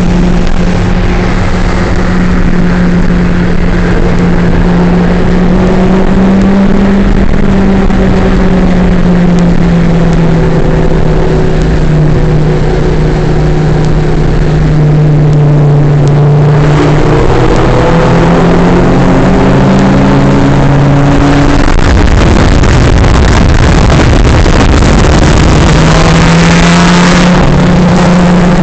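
Car engine heard from inside a moving car's cabin at speed, its note holding steady and shifting in pitch a few times. From about three quarters of the way through, a loud rush of wind and road noise swells, and the engine note climbs near the end as the car speeds up.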